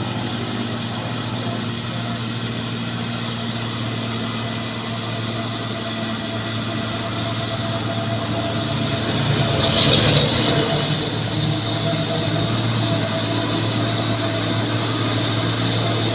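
Heavy truck engine running steadily under load, with a brief louder rushing noise about ten seconds in.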